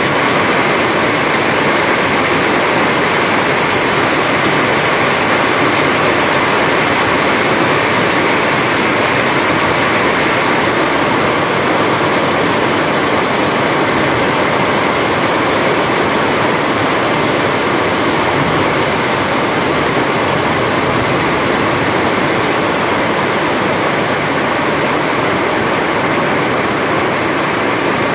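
Steady, loud rain falling, an even hiss that never breaks.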